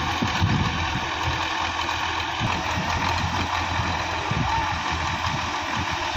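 Tractor engine running steadily at low revs, a continuous rumble with an uneven throb.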